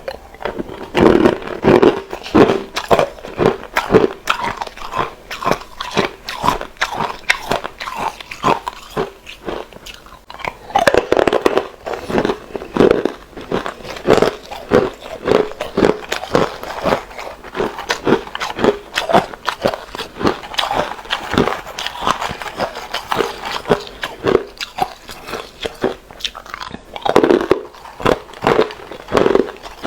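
Close-miked hard ice being bitten and chewed: a rapid, irregular run of sharp, loud crunches, about two or three a second, with brief pauses between bites.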